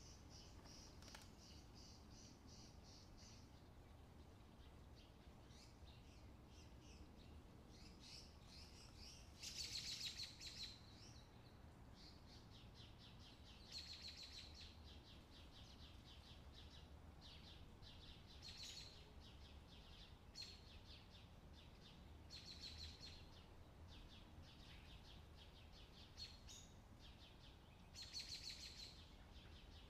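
Faint birds chirping, in short runs of rapid high chirps every few seconds, the loudest about ten seconds in, over a low steady hum.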